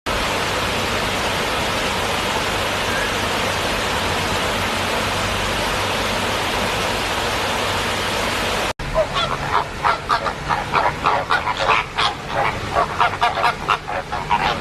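A steady, even rushing noise, then after a sudden cut about nine seconds in, a busy flurry of short, rapid honking bird calls, several a second.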